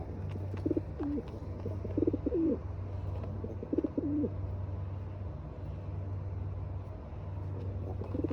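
Pigeon cooing: three coos in the first four seconds, about a second and a half apart, over a steady low hum.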